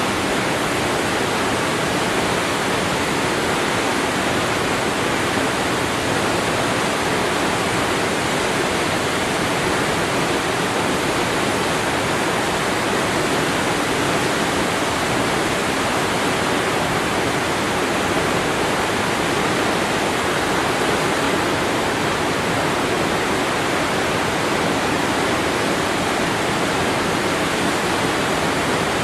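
Waterfall: a steady, even rush of falling water crashing onto water, with no breaks or changes.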